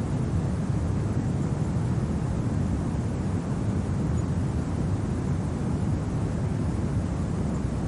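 Steady, low rumble of winter wind, even throughout with no gusts or separate sounds standing out.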